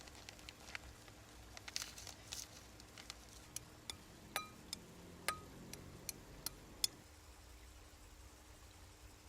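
A run of faint light clicks and clinks of small hard objects being handled, a few ringing briefly like glass or metal, stopping about seven seconds in.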